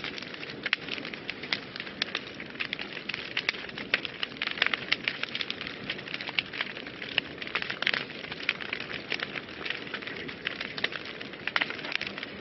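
Wood fire burning in a fireplace, crackling and popping steadily with dense irregular snaps over a soft hiss.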